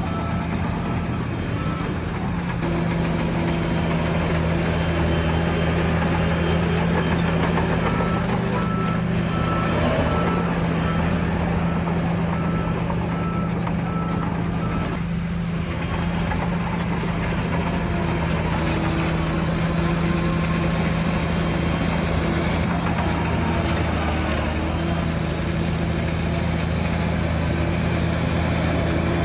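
Heavy diesel earthmoving machinery runs steadily. A reversing alarm beeps in quick pulses from about eight to fifteen seconds in.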